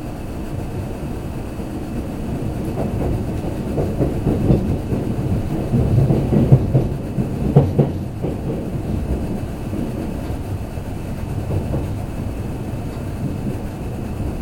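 Kintetsu limited express train running, heard from inside the passenger car: a steady rumble, with a cluster of wheel clatter over rail joints in the middle.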